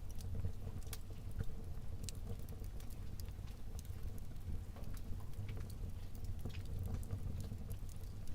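Wood fire burning in a fireplace, crackling with scattered irregular pops and snaps over a steady low rumble of the flames.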